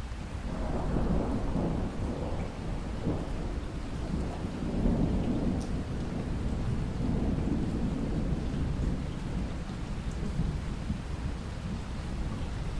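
Steady rain with a long, low roll of thunder that swells up about half a second in, rumbles on for about ten seconds and eases near the end.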